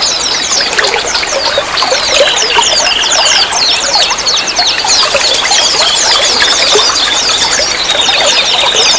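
Running water trickling steadily, with many small birds chirping over it in quick, short, downward-sweeping notes.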